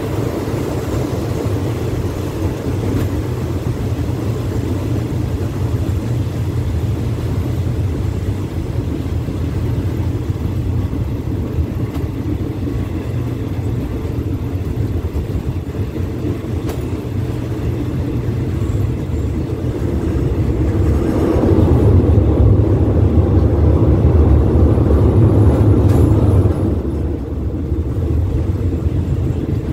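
Passenger train running along the track, heard from an open carriage window: a steady low rumble of wheels and running gear. It grows louder for a few seconds near the end, then drops back.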